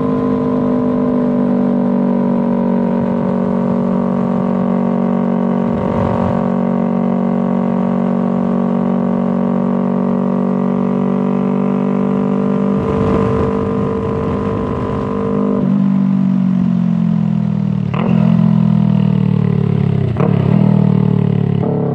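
2019 Yamaha R3's 321 cc parallel-twin engine through a full Toce exhaust with the dB killer installed, running at a steady pitch. About two-thirds of the way in the pitch drops lower, and a couple of short sharp changes in the engine note follow near the end.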